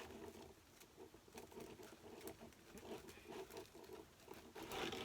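Faint, irregular rustling and small clicks of a bow's wire being pushed down through wreath mesh and the back of a wreath form by hand.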